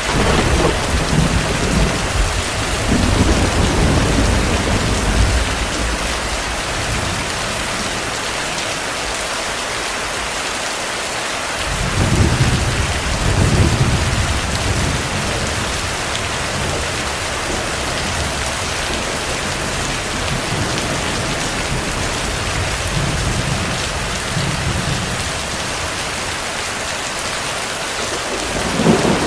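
Heavy steady rain with rolling thunder rumbling several times: a long rumble at the start, another about twelve seconds in, a fainter one later and a swell near the end.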